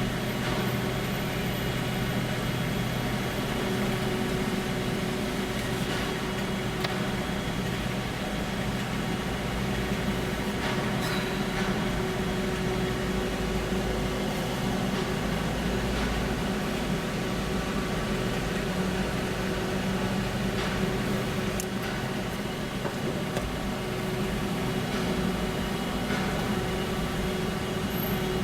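Steady mechanical drone with a few low held tones and occasional faint clicks: the engine and ventilation hum of vehicles on a ferry's enclosed car deck.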